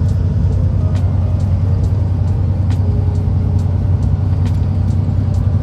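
Semi-truck engine running steadily in low gear, heard from inside the cab as a loud, even low drone, with a faint regular ticking about twice a second.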